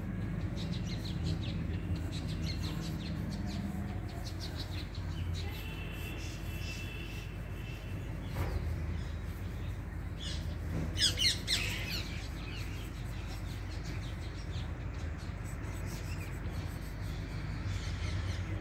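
Birds calling: a quick run of high chirps about eleven seconds in, over a steady low rumble.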